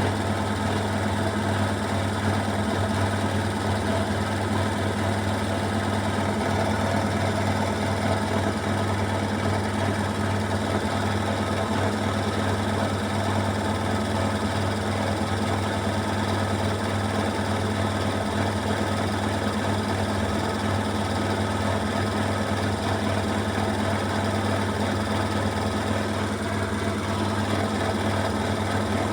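Beko WMY81283LMB2 washing machine spinning at high speed in its 1200 rpm final spin: a steady hum with rattling and vibration from an unbalanced load.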